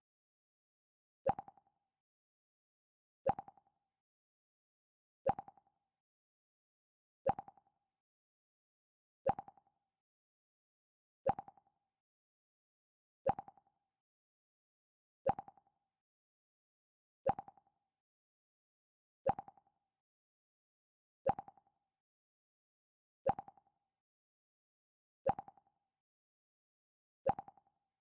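The Mac OS X 'Pluck' system alert sound: a short plucked note that dies away quickly, played fourteen times at an even two-second spacing with silence between.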